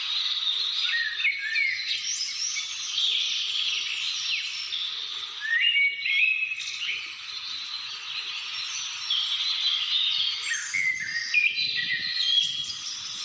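A dense chorus of many birds singing and calling at once: overlapping chirps, whistled notes and quick rising and falling trills.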